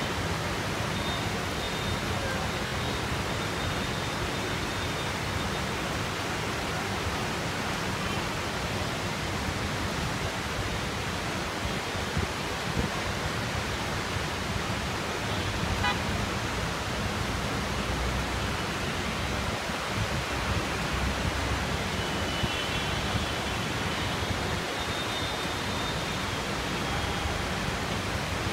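Heavy rain falling steadily in a continuous, even hiss. Faint vehicle horns sound a few times, near the start and again about three-quarters of the way through.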